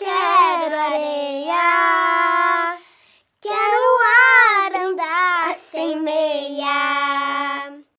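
A child singing a pop melody, with almost no accompaniment to be heard: one phrase ending on a long held note, a short pause about three seconds in, then another phrase, again ending on a held note.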